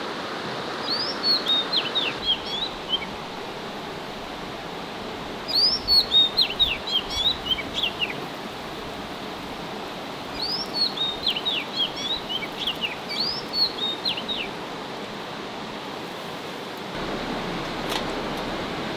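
A songbird singing four short phrases of quick, high, falling chirps a few seconds apart, over a steady rushing hiss.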